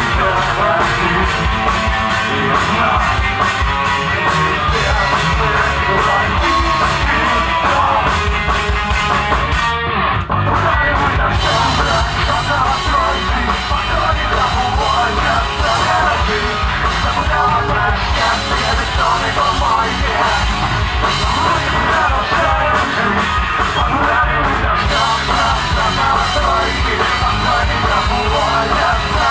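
Rock band playing live with drums and guitar. The cymbals briefly drop out about ten seconds in.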